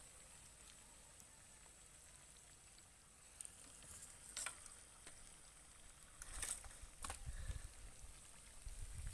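Chicken frying in oil in a pan over a wood fire, sizzling faintly, with a few sharp clicks from about three seconds in and a low rumble near the end.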